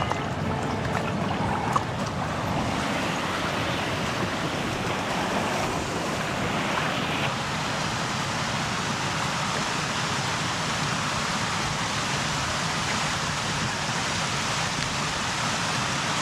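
A river running steadily, its water rushing as a constant wash, with a couple of small knocks about two seconds in.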